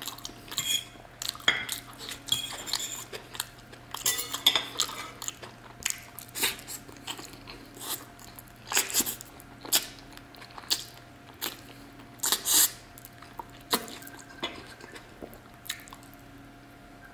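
A person chewing and gnawing roast chicken meat off the bone, close to the microphone: irregular sharp smacks and clicks of eating.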